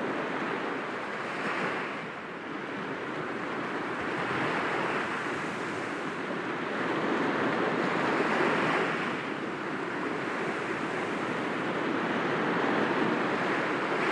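Sea waves breaking gently against rocks, a steady wash that swells and eases every few seconds, with surges at about 1.5, 4.5, 8.5 and 13 seconds.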